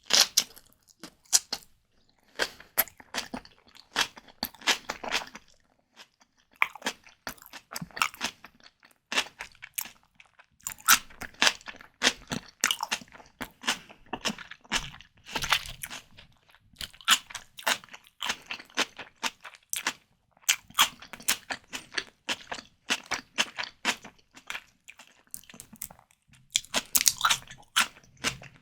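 Close-miked chewing and biting while eating white tiger prawns: a dense, irregular run of crunchy clicks, broken by short pauses between mouthfuls.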